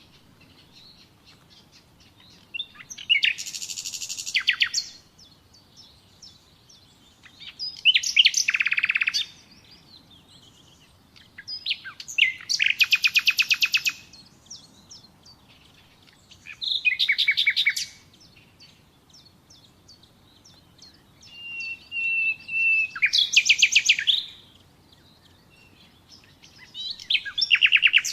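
Nightingale singing: short phrases of rapid repeated notes and trills, one every four to five seconds with pauses between. One phrase, a little past the middle, opens with a long steady whistle.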